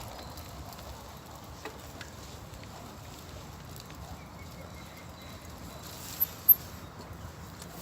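Bicycle riding along, heard through a handlebar-mounted phone: steady rolling noise with light rattles and clicks. Two short, sharp, high chirps come about six seconds in.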